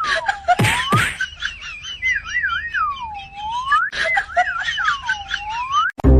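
Whistling: a single clear tone swooping down and back up in repeated dips, with quick wobbles at the top, broken by a few short sharp snaps. Orchestral music cuts in abruptly at the very end.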